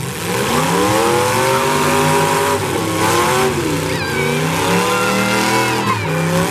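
Several demolition derby cars' engines revving, their pitch climbing and dropping over and over as they accelerate and back off.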